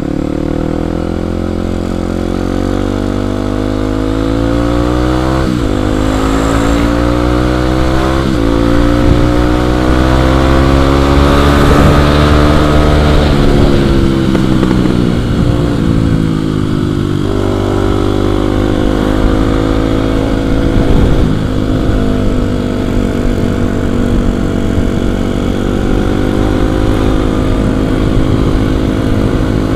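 Kawasaki KLX 250's single-cylinder four-stroke engine under way, revving up through the gears with a short break at each shift. It eases off about halfway through, then pulls steadily again.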